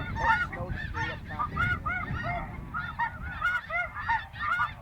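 A flock of snow geese calling, with many short, high yelping honks overlapping in a constant chorus and a low rumble underneath.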